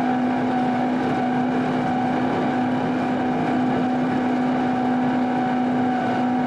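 The engine of a piece of snow-plowing heavy equipment runs at a steady speed, making an even drone with a constant hum.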